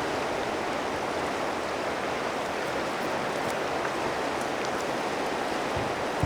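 Steady rushing of the river's flowing water, with a few faint ticks.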